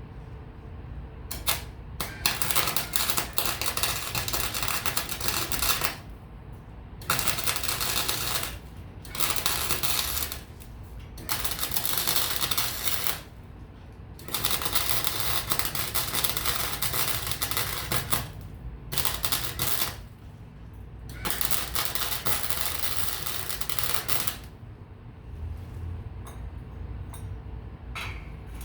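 Electric welding arc crackling in about seven bursts of one to four seconds each, with short pauses between as the weld is stopped and restarted.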